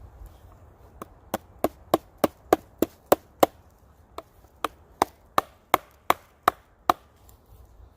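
A wooden baton striking wood in a quick, even run of sharp knocks, about three a second: batoning a pocket knife into a dead tree. About nine strikes, a short pause, then about eight more.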